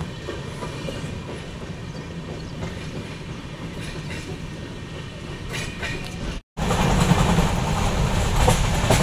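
Passenger train running on the track, a steady noise of the moving train. About six and a half seconds in the sound drops out for a moment and comes back louder.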